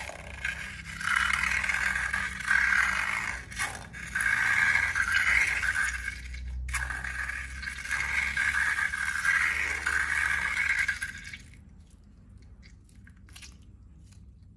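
Scraping and rubbing in a series of surging strokes, each a second or two long, that stops suddenly near the end, leaving only faint scattered ticks.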